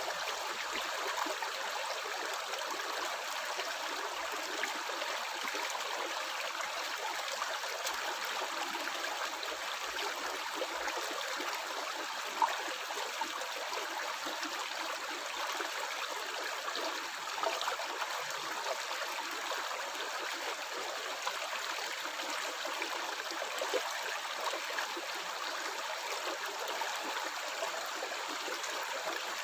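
Stream water flowing steadily over stones, with a constant gurgling rush.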